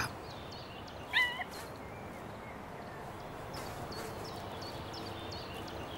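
Wolf pup giving one short, high whimper about a second in, its pitch stepping and wavering, over a faint background with small high chirps.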